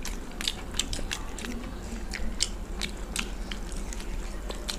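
Two people biting and chewing fried chicken pakoda: a quick, irregular run of wet mouth clicks and smacks.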